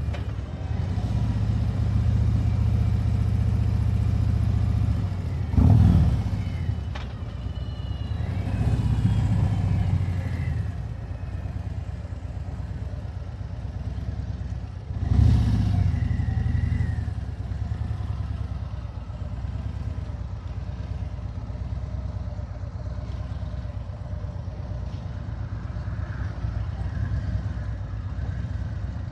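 Harley-Davidson Road Glide V-twin engine running under way, with two brief loud bursts about six and fifteen seconds in, then running quieter for the rest.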